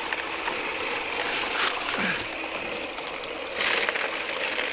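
Gravel and stones rattling and clattering in a spinning bucket sieve on a high banker, with water running through it, with louder surges of rattling about a second and a half in and again past three and a half seconds.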